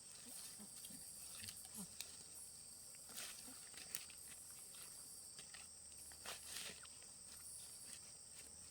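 Insects chirring steadily in a high, even drone, with scattered rustles and clicks and a few faint short low grunt-like calls in the first couple of seconds.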